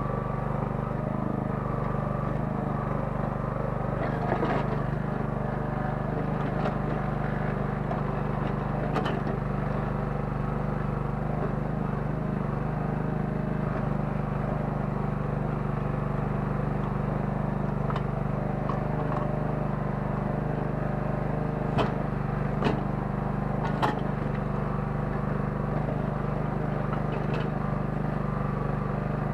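Small 9 hp petrol engine of a towable Kellfri mini excavator running steadily under hydraulic work, with a few sharp knocks, most of them in a cluster in the second half.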